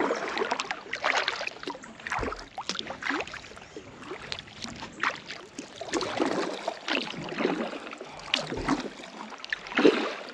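Kayak paddle dipping and splashing in river water, stroke after stroke at an uneven pace, with water trickling off the blade.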